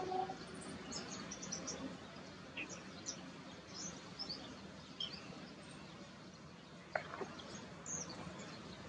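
Small birds chirping: scattered short, high chirps over a steady outdoor background noise, with a single sharp click about seven seconds in.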